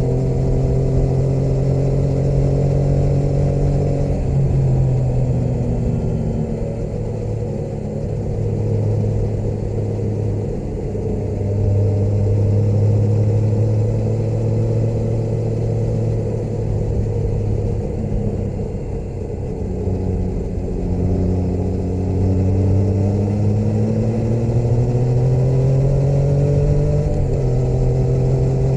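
Motorcycle engine running under way while riding. The pitch holds steady, drops at about four seconds, then climbs for several seconds and falls back abruptly near the end at a gear change, over a steady low rush of wind and road noise.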